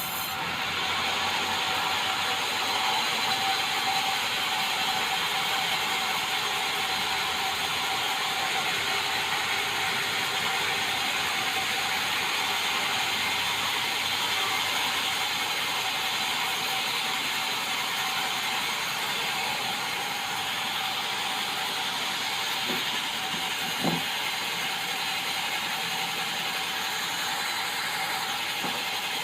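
Sawmill saw running steadily through a white meranti log, a continuous grinding with a steady whine. One short knock sounds late on.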